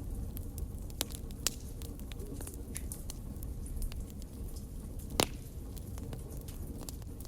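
Wood fire crackling in a fireplace: a steady low rumble of the flames with scattered sharp pops, the loudest about five seconds in.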